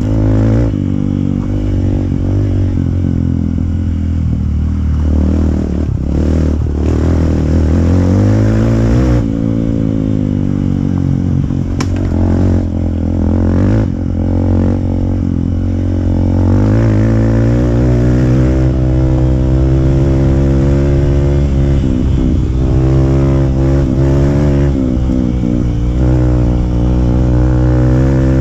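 A Hero Impulse motorcycle's single-cylinder four-stroke engine running through a free-flow exhaust, repeatedly revving up and easing off. About two thirds of the way through the pitch climbs and stays higher.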